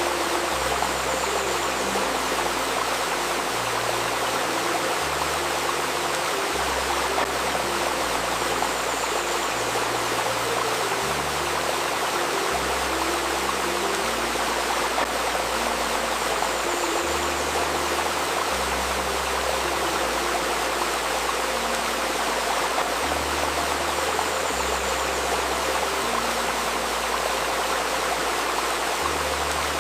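River stream babbling, a steady rush of flowing water, layered with a faint steady 528 Hz tone and low, soft held notes that change every second or two.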